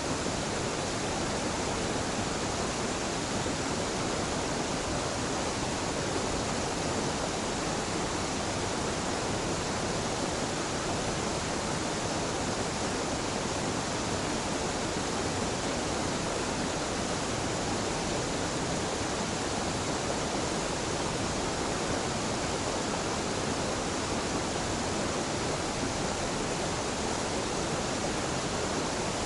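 Mountain-stream waterfall: the steady, unbroken rush of falling water.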